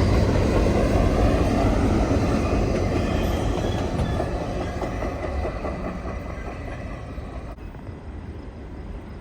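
Wheels and cars of a passing CN freight train clattering on the rails, the rumble slowly fading as the train moves away.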